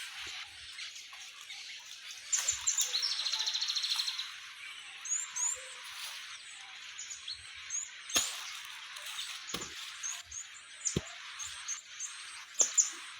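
Wild birds chirping and calling, with a fast trill a couple of seconds in, over a steady outdoor hiss. A few sharp knocks sound in the second half.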